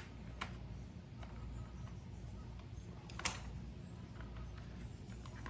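A few faint, sharp clicks and taps of metal and plastic parts being handled as an engine's air box is fitted, one louder about three seconds in, over a low steady hum.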